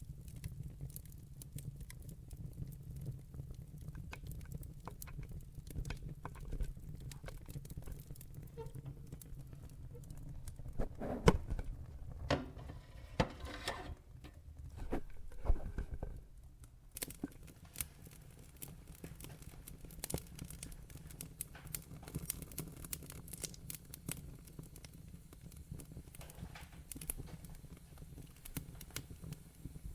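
Wood fire in a fireplace crackling, with constant small pops over a low rumble of flames. Around the middle comes a cluster of louder sharp pops with a brief hiss, then lighter crackling resumes.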